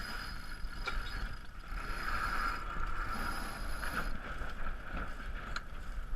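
Sailboat under way: steady rush of water along the hull, with wind rumbling on the microphone. Three sharp ticks come about a second, four seconds and five and a half seconds in.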